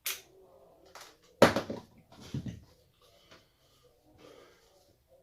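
Several sharp knocks and clicks of hands working on parts, the loudest about one and a half seconds in, followed by fainter taps.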